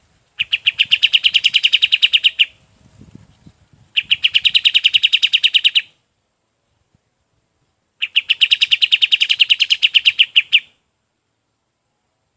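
Kapas tembak songbird singing three bursts of rapid, evenly repeated chipping notes, roughly ten notes a second. Each burst lasts about two seconds, with short pauses between them.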